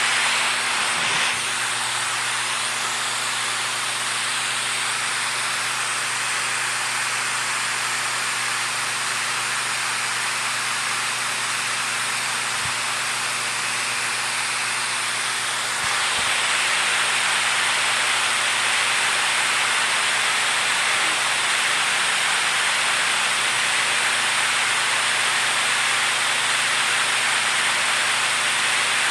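Steady rush of flowing water, an even hiss with no breaks, getting slightly louder and brighter about 16 seconds in.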